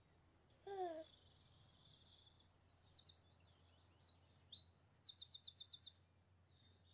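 Songbirds chirping and trilling, with a fast run of repeated high notes near the end. About a second in, a short falling vocal sound.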